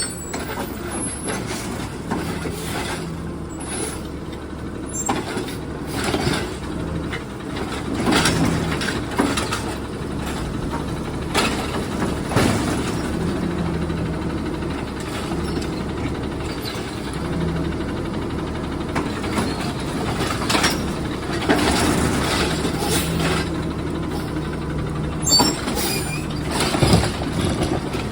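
Garbage truck running, with a steady engine hum broken by repeated short clanks and hisses from its working mechanisms and air brakes.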